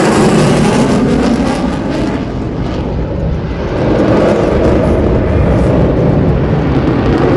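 Military jet aircraft flying past with loud, steady jet engine noise that eases slightly a couple of seconds in and builds again.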